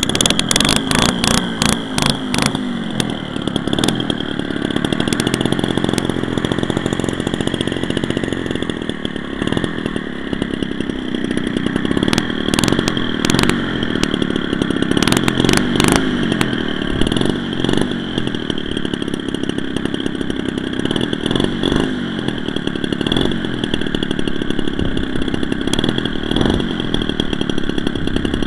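Converted Homelite 30cc two-stroke string-trimmer engine of a giant-scale RC airplane running hard, its buzzing pitch rising and falling, with bursts of crackle early on and again midway.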